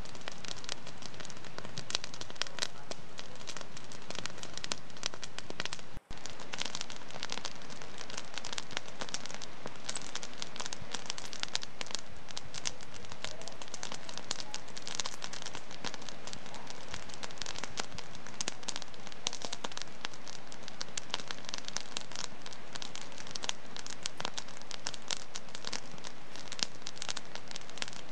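Wood fire in a fireplace crackling steadily, a dense run of irregular pops and snaps over a soft hiss, with a momentary drop-out about six seconds in.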